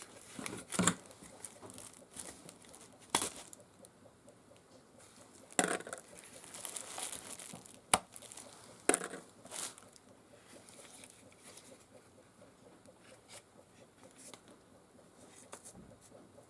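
Small parts and tools being handled on a workbench: a handful of scattered sharp clicks and knocks, with some rustling in between, then quieter handling toward the end.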